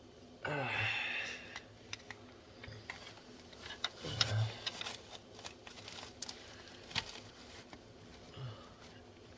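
Scattered small clicks and knocks of hands working plastic plug connectors onto the injector and glow plug harness under the valve cover, with a man's short effortful grunts falling in pitch, the longest about half a second in and others around four seconds and near the end.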